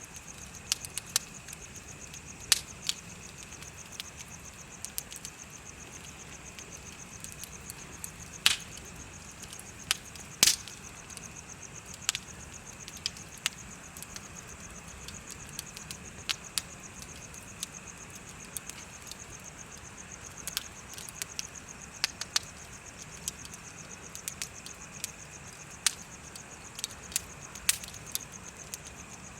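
Bonfire crackling with scattered sharp pops, two of them louder about a third of the way in, over steady, rapid high-pitched insect chirping.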